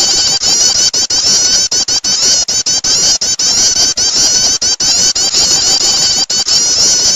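Prinia (prenjak) calls played as a bird lure: dense, fast, high-pitched chirping with many calls overlapping, broken by brief gaps.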